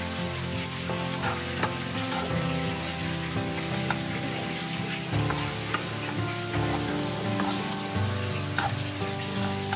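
Sliced sausages sizzling as they fry in a nonstick frying pan, stirred with a spatula that clicks and scrapes against the pan now and then.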